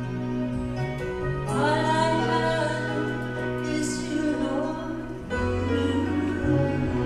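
Gospel song with instrumental accompaniment holding steady notes. A sung line comes in about a second and a half in and ends a little after five seconds.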